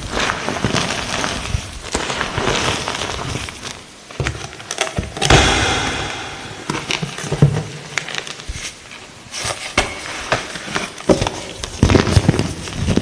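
Blocks of light green gym chalk being crushed: dense, crisp crunching and crackling, with a longer, louder stretch of crumbling about five seconds in.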